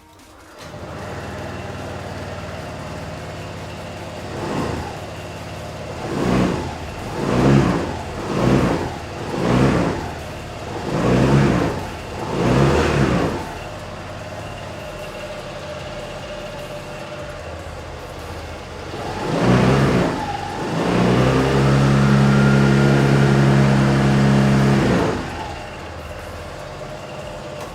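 2014 Honda SH125 scooter's 125 cc single-cylinder four-stroke engine starting about a second in and idling. It is revved with about seven short throttle blips, then one more, then held at higher revs for about four seconds before settling back to idle.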